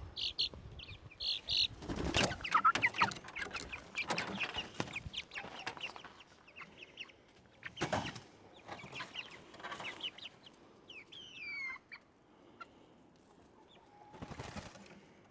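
Chickens clucking and calling in short, scattered notes, with a couple of louder rustling bursts, one about two seconds in and one near the middle.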